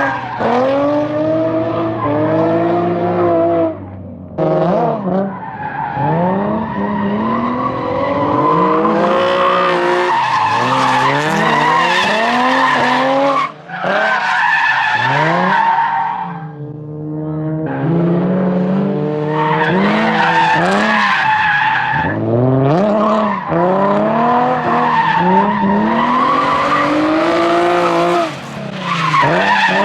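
A drift car's Nissan VQ V6 engine revving up and down again and again as the throttle is worked through linked drifts, with tyres squealing and skidding under it. Three times the engine note drops away briefly, at about 4 s, about 13 s and near the end.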